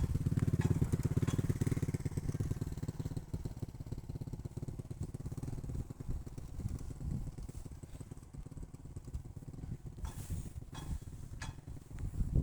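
Motorcycle engine running, loud at first and fading over several seconds, with a few sharp clicks near the end.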